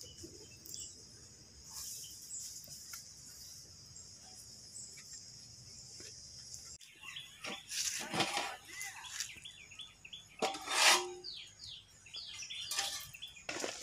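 Birds chirping in many short, quick calls and trills, with a couple of louder knocks. Before them a steady high-pitched hiss that cuts off suddenly about seven seconds in.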